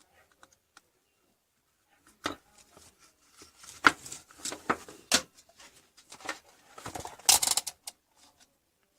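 Irregular clicks, knocks and rustling scrapes of objects being handled, starting about two seconds in and coming in clusters, the loudest near the middle and again near the end.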